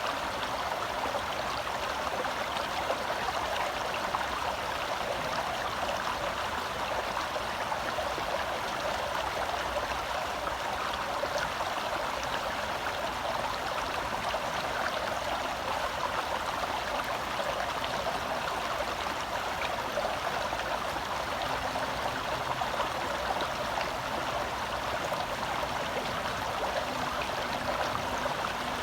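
Forest stream flowing over rocks: a steady rush and babble of water.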